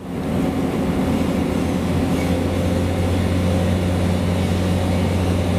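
A moving train heard from inside the carriage: a steady low drone over an even running rumble.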